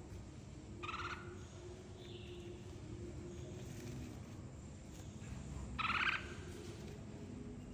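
Red-whiskered bulbuls calling in short bursts: two clear calls, about a second in and near six seconds, with a fainter one around two seconds, over a steady low background hum.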